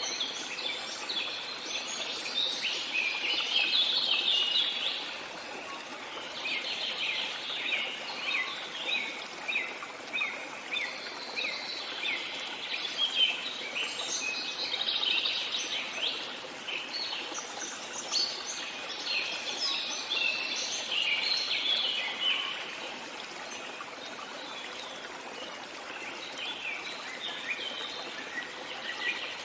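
Many birds singing and chirping in dense overlapping phrases over a steady hiss of running water. The birdsong thins out after about twenty seconds.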